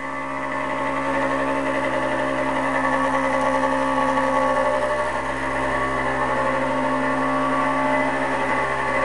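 Warmed-up Suzuki RM80 two-stroke dirt bike engine with an FMF exhaust, held at steady part-throttle revs, about half throttle. It gets louder over the first second, then holds an even pitch.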